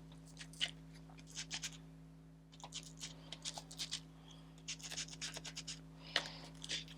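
Quick scratchy strokes of an ink applicator rubbed over a stencil on paper, coming in short clusters with brief pauses, over a faint steady hum.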